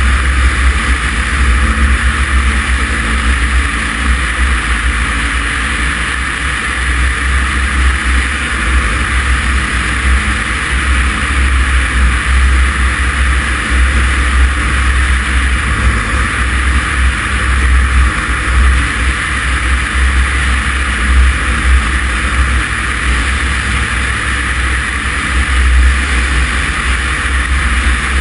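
Cessna 140's engine and propeller droning steadily, heard inside the cockpit along with the rush of air.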